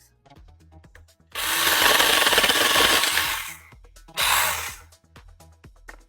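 Battery-powered mini chainsaw cutting into wood: a loud cutting burst of about two seconds, then a second short burst about a second later.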